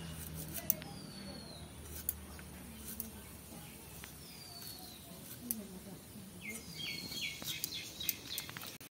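Birds chirping in the background: a few falling whistled notes, then about six and a half seconds in a quick run of short repeated chirps followed by more falling notes. Occasional faint sharp clicks come from small green figs being sliced on a boti blade.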